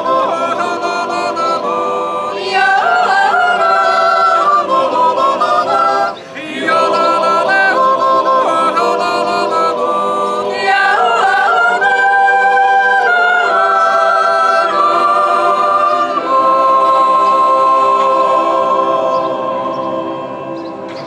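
Swiss yodel choir singing a cappella in several parts, with sustained chords and a brief break about six seconds in. It ends on a long held chord that fades away near the end.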